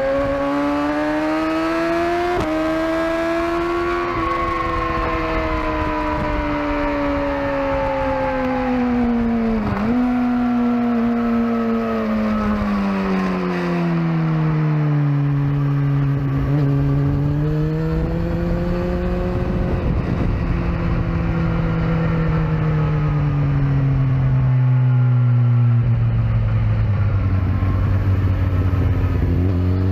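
Sport motorcycle engine ridden hard at track pace: its note rises and falls with throttle and gear changes, with a sharp dip about ten seconds in followed by a long drop in pitch as the bike slows, and a further step down near the end.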